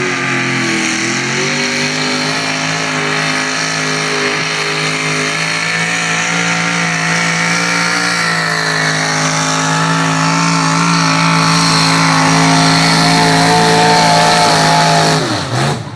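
Competition pulling tractor's engine running at high revs under full load, a loud, steady note held for about fifteen seconds that creeps slightly higher, then falls away quickly near the end.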